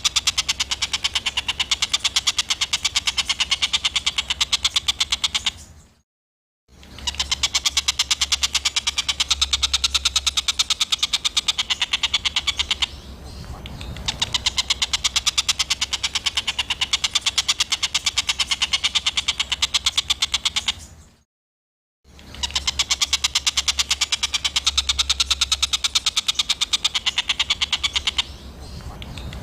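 Recorded small songbird giving a rapid run of harsh, clicking chatter notes, many a second. This is the rough 'tembakan' call used as masteran training song. It plays in long stretches, broken by two brief silences.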